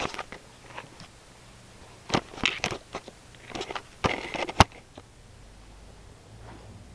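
Camera being handled and set in place: scattered clicks, knocks and rubbing, with the sharpest knock about four and a half seconds in.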